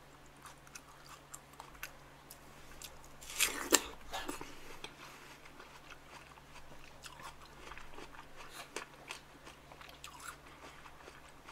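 A bite into a slice of raw watermelon about three and a half seconds in, then chewing of the watermelon with many small, faint clicks.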